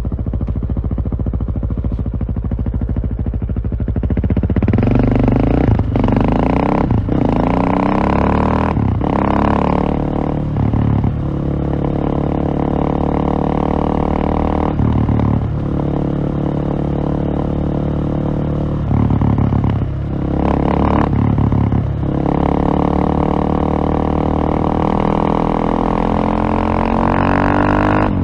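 Single-cylinder KTM motorcycle engine under way: running low and even at first, then accelerating from about four seconds in. Its pitch climbs repeatedly, broken by brief dips as the rider shifts gears, and climbs again near the end.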